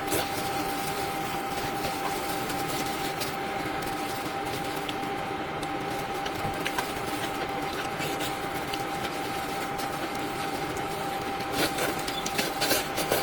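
Steady background hum and hiss with one constant whine held throughout, and a few faint clicks near the end.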